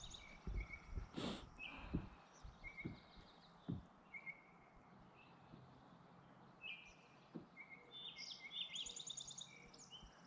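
Birds singing: short repeated chirps and rapid trills, busiest near the end, with a few faint low knocks in the first few seconds.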